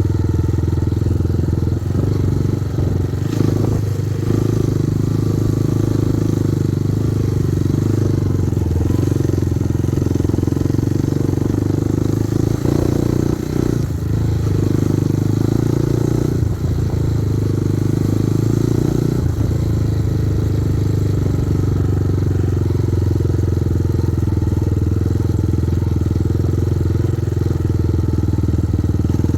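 Kovi Advance 250 motorcycle engine running steadily while being ridden, with a few short knocks and clatters along the way and a change in the engine note about two-thirds of the way through.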